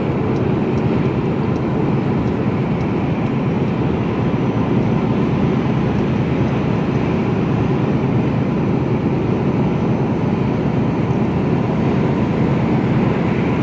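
Steady engine and road noise inside the cab of a Mercedes-Benz Actros truck on the move.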